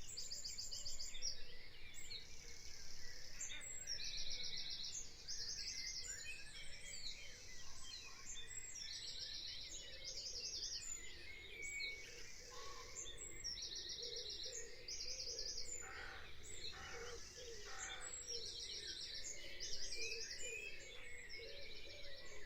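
Small birds chirping in short, fast high trills that recur every second or two, over a steady low background hiss.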